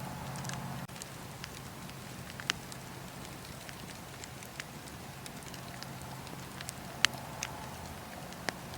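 Wood fire crackling in a fireplace: a steady soft hiss with scattered sharp pops, the loudest about two and a half seconds in and again about seven seconds in.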